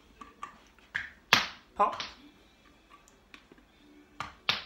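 Squigz silicone suction-cup toys being pulled apart, giving several short, sharp pops; the loudest comes about a second and a half in, and two more come near the end.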